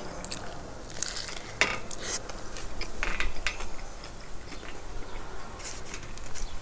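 Close-miked chewing of a Subway sub sandwich: irregular wet clicks and smacks of a mouthful of bread and fillings being chewed.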